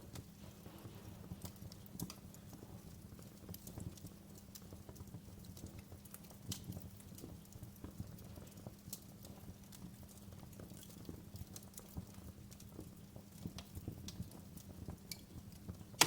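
Wood fire crackling in a fireplace: irregular sharp pops and snaps over a low steady hum.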